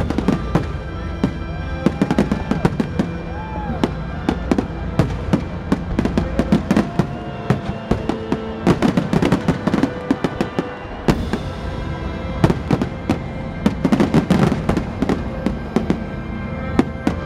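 Aerial fireworks shells bursting in rapid succession, a dense run of sharp bangs and crackling, with music playing underneath.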